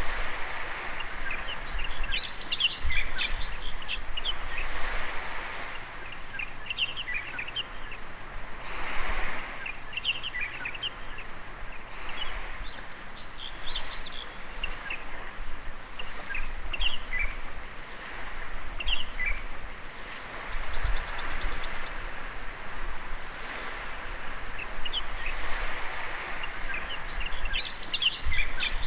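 Small waves washing on a sandy beach, the wash swelling and ebbing every few seconds, with birds chirping in short, quick notes throughout.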